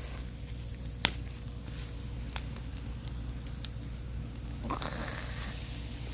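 Wood fire burning and crackling, with scattered sharp pops, the loudest about a second in, over a steady low rumble. A short rushing hiss comes about five seconds in.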